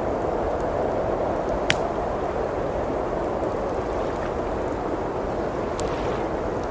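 Steady rushing of blizzard wind with a wood fire crackling in a fireplace: a sharp pop about two seconds in, another near the end, and a few fainter ticks.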